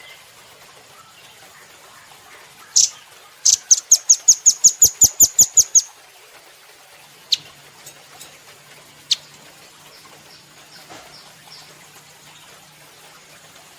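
Velvet-fronted nuthatch calling. A single sharp high chip is followed by a fast run of over a dozen chips lasting about two seconds. Then come two isolated chips and a fainter short run near the end.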